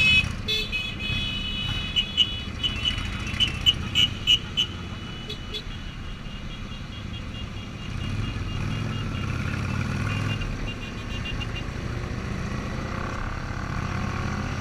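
Motorcycle engine and road rumble while riding. A high horn sounds at the start, then gives about six short toots between two and four and a half seconds in.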